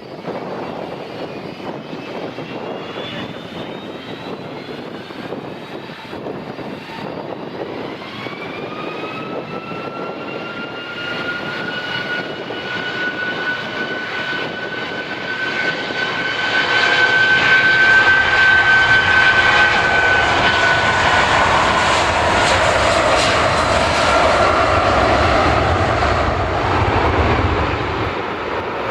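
An airliner passing close, its engine noise building over the first half to a loud, steady run with a high whine that rises in pitch and then holds, easing slightly near the end.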